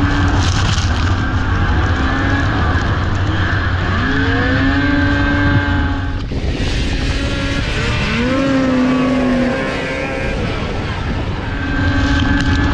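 Racing snowmobile engines running hard, the pitch climbing steeply twice, about four and eight seconds in, as the sleds accelerate, with a brief drop in between.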